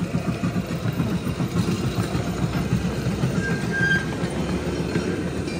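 Zoo train's engine running close by, a steady low rumble.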